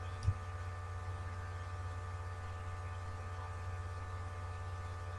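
Steady electrical mains hum, with one short faint click about a third of a second in.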